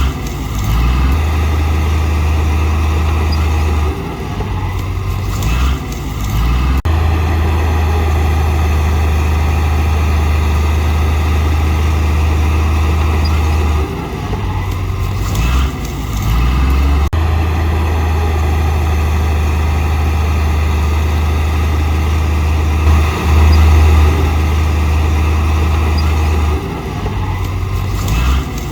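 Diesel engine of heavy earthmoving machinery running under load, a loud low drone whose note shifts now and then as the machine works.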